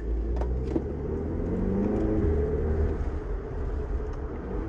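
2022 VW Polo GTI's 2.0-litre turbocharged four-cylinder engine, heard from inside the cabin, pulling under acceleration. Its revs climb for a couple of seconds, then drop sharply a little over two seconds in and run on steadier.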